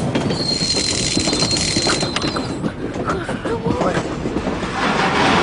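Train passing: a loud rumbling clatter of wheels on track, with a thin high squeal over the first half.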